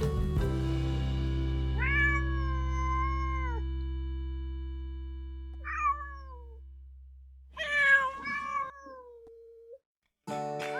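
A domestic cat meows three times: a long meow about two seconds in, a short falling one, and a louder one. Underneath, a held music chord slowly fades. After a brief silence near the end, music and meowing start again.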